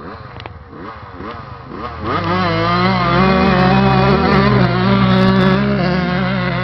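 Motocross motorcycle engine: for the first two seconds it revs up and down in quick rising sweeps. Then, about two seconds in, a much louder, close engine note comes in and holds fairly steady, with slight wavering in pitch.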